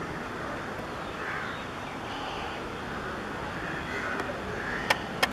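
Crows cawing several times over a steady background noise, with two sharp clicks close together near the end.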